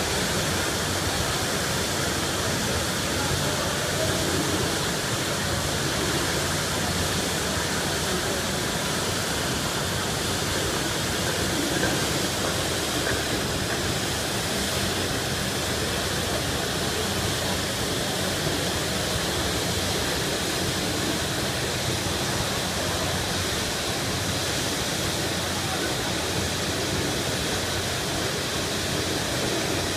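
Water gushing from a broken fire hydrant as a tall geyser, a steady rushing noise that holds evenly throughout.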